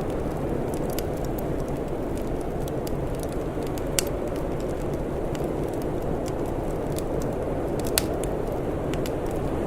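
Wood fire crackling, with many small pops and two sharper, louder pops about four and eight seconds in, over a steady low rumble.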